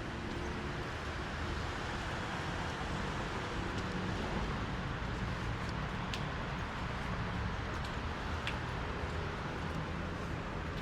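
Steady city traffic noise: a continuous rumble and hiss of road traffic, with a couple of faint clicks.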